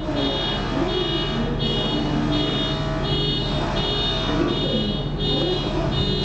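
A high electronic warning buzzer beeping steadily about one and a half times a second, over the steady low hum of a ferry's engine.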